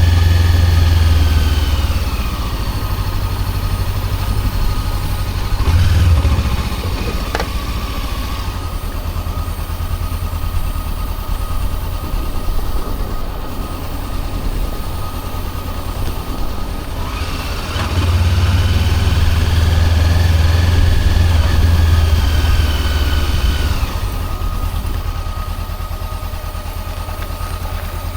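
Honda CB400X's 399 cc parallel-twin engine running on the move, pulling harder with a falling whine at the start and again with a rising whine from about two-thirds through, easing off in between.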